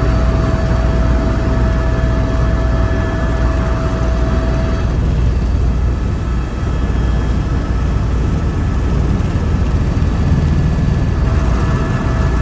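Helicopter noise heard from inside the cabin: a steady low drone of rotor and engine, with a thin high whine over it that drops out about five seconds in and comes back near the end.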